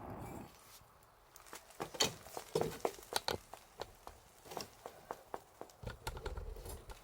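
Campfire crackling: irregular sharp snaps and pops, denser from about a second and a half in, with a brief low rumble near the start and again near the end.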